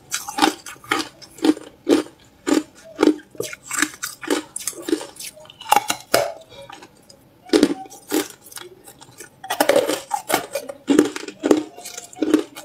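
Hard clear ice being bitten and chewed: crisp crunches in quick succession, about two a second, with a brief pause a little past halfway.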